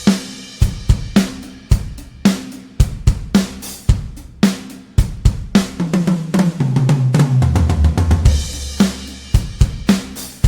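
Sampled acoustic drum kit from the Toontrack EZdrummer 3 plugin playing a groove of kick, snare and cymbals, opening on a crash. About six seconds in it plays a fill down the toms, each tom lower than the last, landing on a crash before the beat picks up again.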